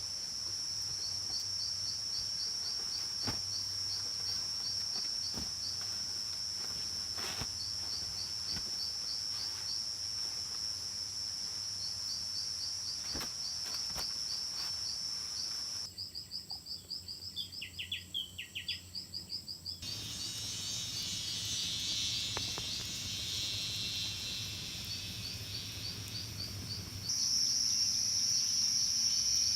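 Insect chorus of crickets: a steady high-pitched trill with rows of rapid chirps, a few faint knocks, and the chorus changing abruptly several times.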